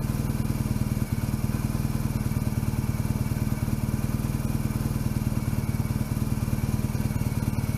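BMW R1200GS flat-twin boxer engine idling steadily with an even, unchanging beat.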